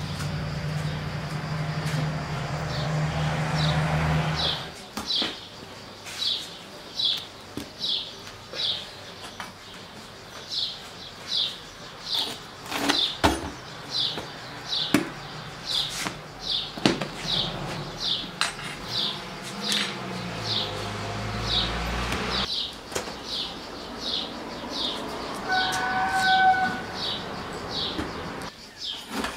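A bird calling over and over, one short falling chirp a little more than once a second. A low hum runs under the first few seconds, and a few sharp knocks come through now and then.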